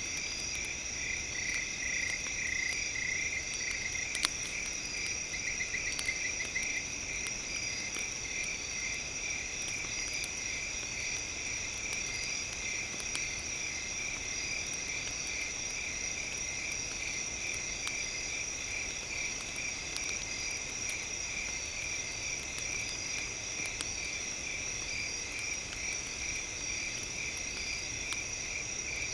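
Campfire crackling in small clicks, with a louder pop about four seconds in, over a steady night chorus of trilling insects and frogs.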